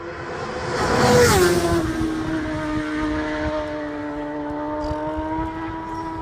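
A racing motorcycle's engine passing at full speed. It gets louder to a peak about a second in, its pitch drops sharply as it goes by, then the engine note holds steady as it pulls away.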